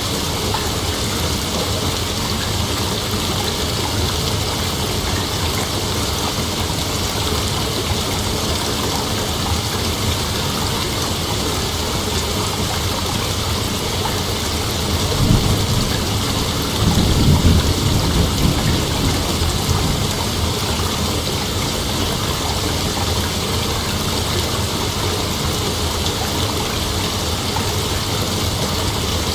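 Steady chorus of night insects, a continuous hiss-like trilling with no break. About halfway through, a low rumble swells for a few seconds and fades.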